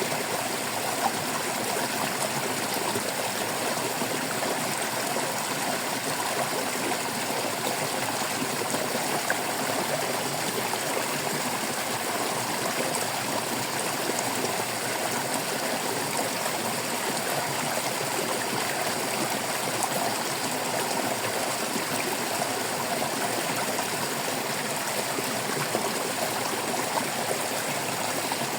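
Stream water flowing and trickling over rocks, a steady babbling rush with small splashes.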